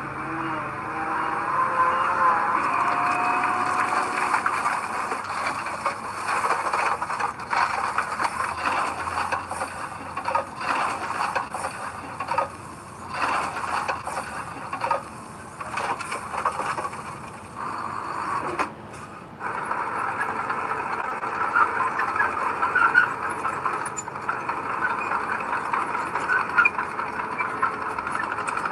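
Heavy earthmoving machinery running, with metal squealing and rattling. The noise drops away briefly a few times around the middle.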